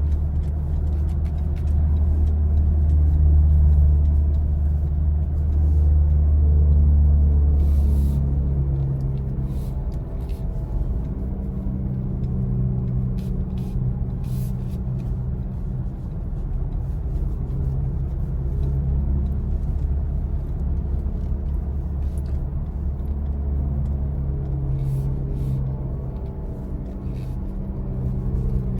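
Low road rumble and hum of a BMW i4 M50 electric car driving, heard from inside, louder for the first eight seconds or so and then steadier.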